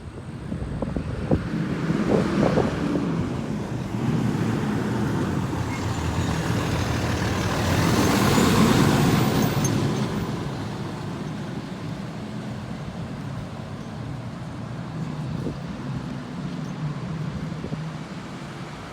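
Street traffic: a vehicle drives past, its tyre and engine noise swelling to a peak about halfway through and fading away, over a steady low engine rumble. A few light knocks come in the first few seconds.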